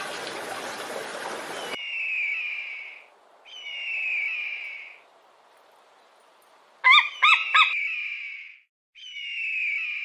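Eagle calling: drawn-out high whistles, each falling slightly in pitch and lasting about a second, repeated several times. About seven seconds in comes a quick burst of three sharp, louder piping notes. Under the first call there is a rushing noise that cuts off abruptly just under two seconds in.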